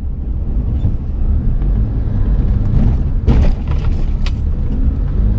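Car driving with a steady low rumble and a couple of sharp knocks about three and four seconds in: suspension noise that the owner takes for worn-out rubber bushes in the shock absorbers.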